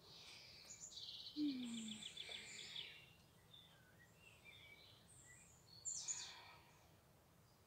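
Faint wild birdsong: a rapid trill of repeated high notes about a second in, then scattered high chirps, with a louder call near the end. A short low falling sound comes about a second and a half in.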